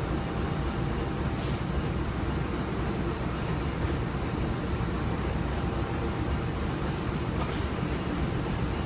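KA Tawang Alun passenger train giving a steady low rumble, with two short hisses, one about a second and a half in and one near the end.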